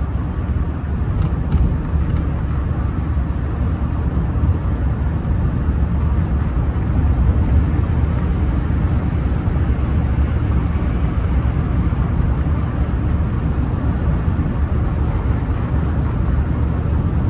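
Rolls-Royce Silver Spirit III being driven, heard from inside the cabin: a steady low rumble of its 6.75-litre V8 and road noise.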